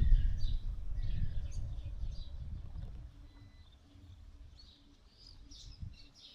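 Small birds chirping in short, scattered calls, over a low rumble that fades away over the first three seconds.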